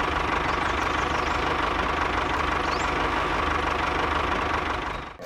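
Small engine of a DIY mini tractor running steadily at an even pace, stopping abruptly near the end.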